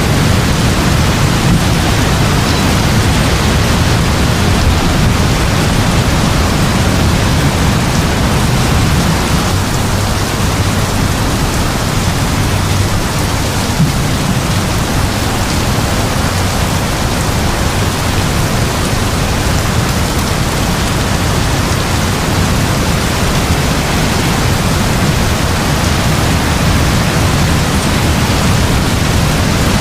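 Heavy rain falling in a steady, even hiss, with a low rumble of distant thunder underneath that is strongest through the first half and eases off toward the middle.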